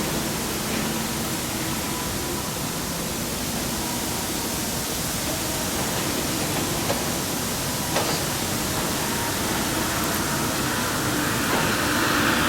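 Steady rushing noise with a faint, even engine hum beneath it, from John Deere 6155R tractors working buckrakes in a silage pit.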